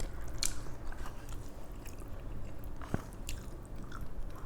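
Close-miked mouth sounds of a person eating spicy noodles and fried chicken: chewing and biting, with scattered sharp clicks and smacks.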